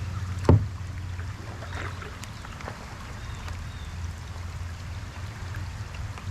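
Steady low hum of a boat's motor, with one sharp knock about half a second in and a few faint clicks after it.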